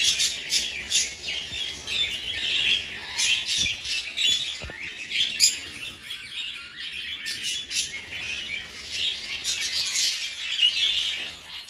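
Budgerigars chirping and squawking, many short calls overlapping without a break.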